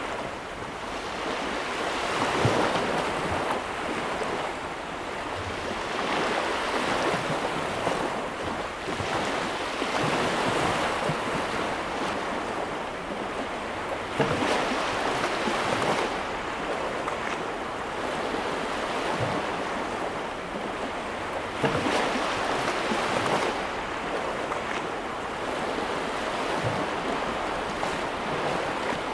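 Sea waves breaking and washing on a shore, a continuous surf that swells and eases every few seconds, with a few sharper splashes of breaking waves.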